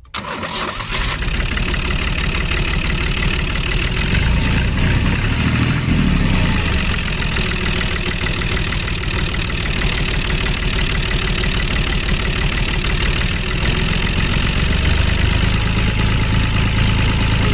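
A motor running steadily and loudly, with a rapid low chugging pulse under a dense hiss.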